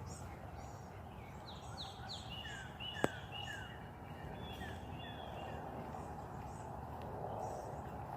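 Wild birds singing: runs of quick, falling chirps with higher, thinner notes above them, over a steady low background hum. A single sharp click about three seconds in.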